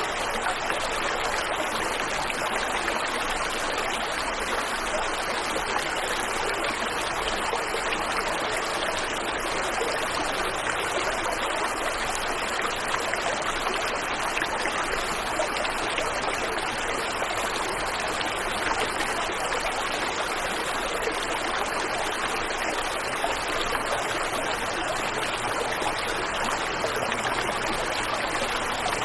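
Waterfall and river water rushing steadily, an even wash of noise with no distinct splashes or breaks.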